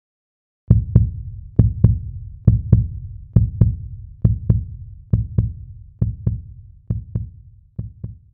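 Heartbeat sound effect: deep paired 'lub-dub' thumps repeating a little faster than once a second, gradually getting quieter.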